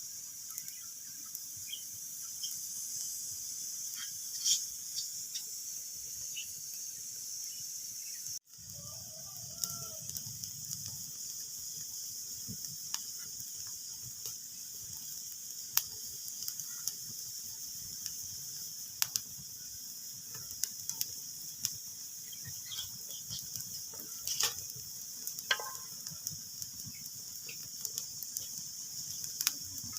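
Wood fire crackling in a fireplace: a steady hiss with scattered sharp pops, and a couple of faint, short whistling tones. The sound cuts out abruptly for an instant about eight seconds in.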